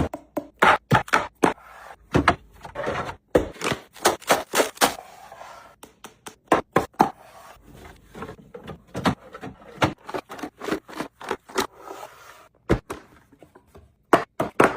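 Irregular clacks, knocks and short scrapes of food containers and packages being set down and slid into place while a refrigerator is stocked.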